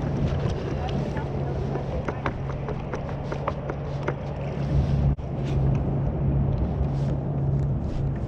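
Small water splashes and lapping around a kayak in shallow water, with wind on the microphone and a steady low hum underneath. The sound drops out for a moment about five seconds in.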